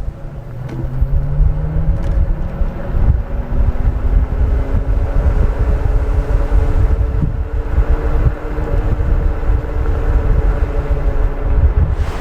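Silence S01 electric scooter's electric motor whining while riding, its pitch rising as it picks up speed over the first few seconds and then holding nearly steady, under heavy wind rumble on the microphone.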